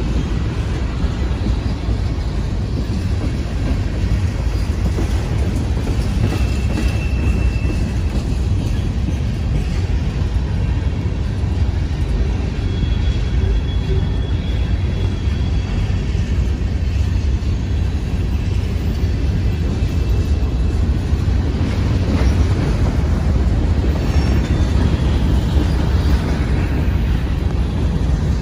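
Freight cars of a manifest train rolling past at speed: a steady, loud low rumble of steel wheels on rail, with faint brief high squeals twice.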